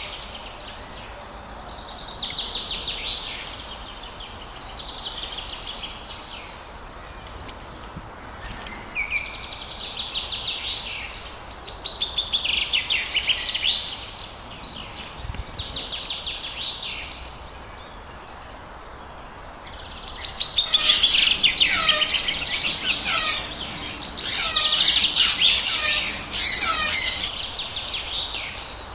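Lovebirds chattering in repeated bouts of rapid, high chirps, busiest and loudest for several seconds in the latter part.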